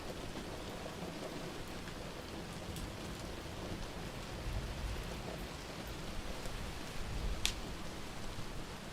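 Steady rain with low rumbles of thunder, and the odd crackle of a wood fire. One sharp crack comes about seven seconds in.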